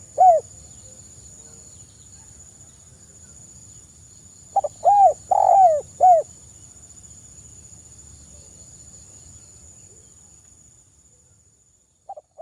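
Spotted dove (tekukur) cooing: one full phrase of four or five rising-and-falling coos about four and a half seconds in, the tail of a phrase at the start and the next phrase beginning near the end. A steady high-pitched tone runs underneath.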